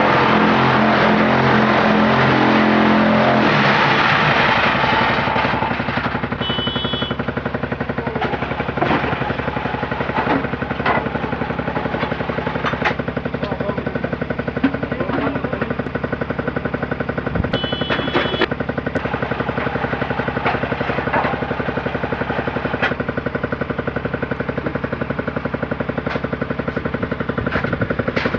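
KXZ4-40 hollow concrete block machine running: a steady mechanical drone with rapid fine vibration, scattered knocks and clanks, and two short beeps about six and eighteen seconds in. It is louder and denser for the first four to five seconds, then settles.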